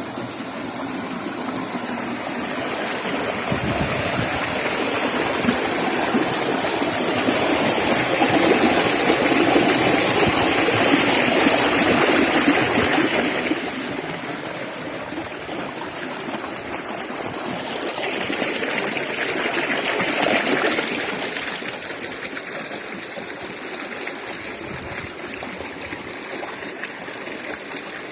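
Stream water rushing steadily, swelling louder for several seconds in the middle and briefly again later.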